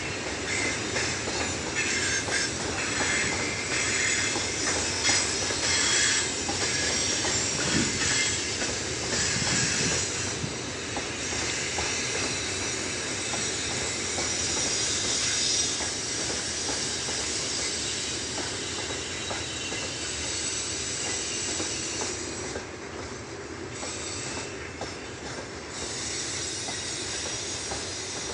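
Tank cars of a long freight train rolling past: a steady wheel-on-rail noise, strongest in the high pitches, with faint clicks of wheels over rail joints. It eases a little about three-quarters of the way through.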